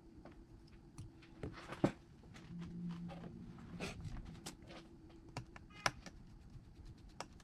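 Scattered small clicks and taps of hand tools on iPhone parts during a repair, with a sharper click a little under two seconds in and another about six seconds in.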